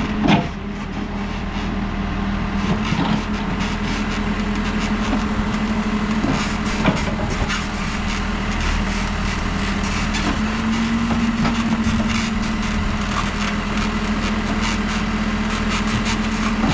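New Holland backhoe loader's diesel engine running steadily under working load, its pitch rising briefly about two-thirds of the way through. Occasional sharp knocks come as the bucket works through clay and stones, the loudest just after the start.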